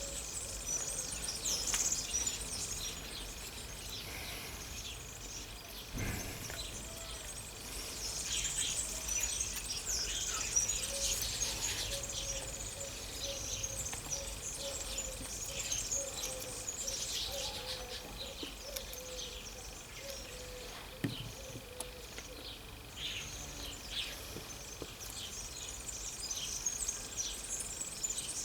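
Birds chirping and singing, many short high calls throughout, over a faint steady high tone, with a couple of soft knocks.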